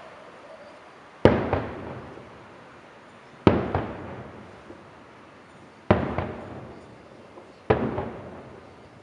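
Aerial firework shells bursting overhead, four loud bangs about two seconds apart. Each bang is followed by a second crack and a rolling echo that dies away over about a second.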